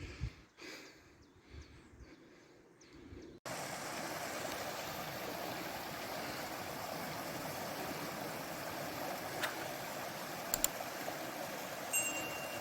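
Kamniška Bela mountain stream rushing over rocks, a steady even rush of water that starts suddenly about three seconds in after a quieter stretch.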